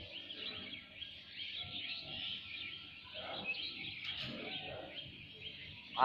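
Faint, rapidly repeated bird chirps, about three or four a second, continuing steadily.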